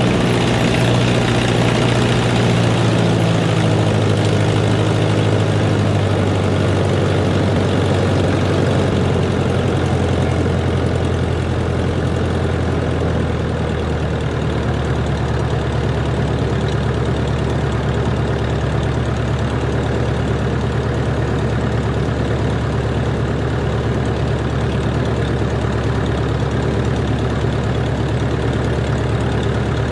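Cessna 140's piston engine and propeller running, with the engine note falling over the first dozen seconds or so as power comes back, then holding steady at the lower setting.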